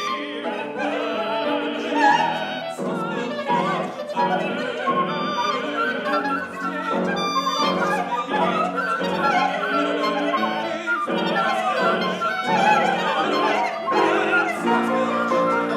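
Contemporary classical chamber music: operatic voices of a vocal quartet singing overlapping lines with vibrato over an ensemble of flute, clarinet, electric guitar and piano, in a dense, continuous texture.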